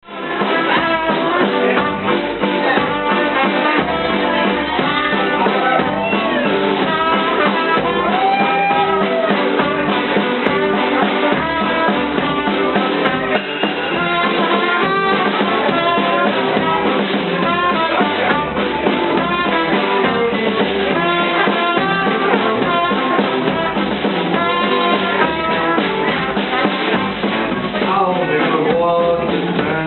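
A hokum-swing band playing live, a brass melody over drum kit, bass and guitar in a steady swing beat, starting suddenly at the very beginning.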